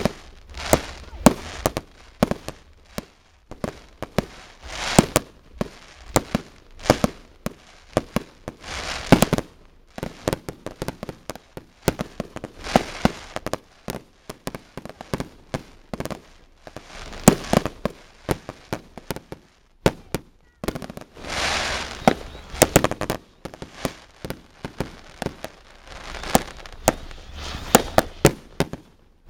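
Fireworks display: aerial shells bursting in rapid, irregular bangs several times a second, some followed by a longer crackling hiss, with a brief lull about two-thirds of the way through.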